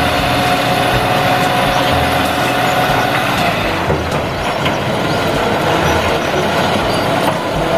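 Dump truck's engine running while its hydraulic hoist raises the bed to tip a load of earth. A steady whine fades out about three seconds in.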